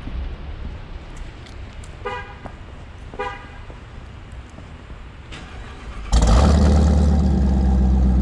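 Two short car-horn chirps about a second apart, then the Jeep Grand Cherokee Trackhawk's supercharged 6.2-litre Hemi V8 starts up about six seconds in and runs loud and steady.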